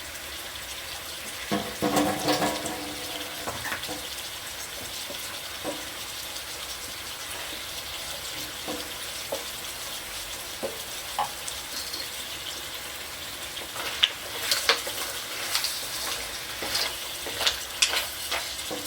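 Mussels frying with onion and garlic in a pan, a steady sizzle. A utensil stirs and knocks against the pan with sharp clicks, about two seconds in and again through the last five seconds.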